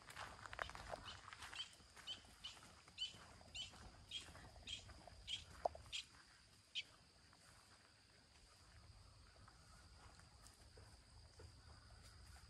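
Faint woodland ambience: a few soft footsteps on the dirt path at first, then a run of about ten short, high bird chirps at roughly two a second that stops about seven seconds in, over a faint steady insect drone.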